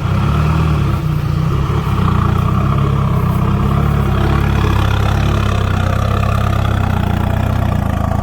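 Diesel engine of a six-wheel dump truck running through a loud exhaust pipe, with a deep, steady note.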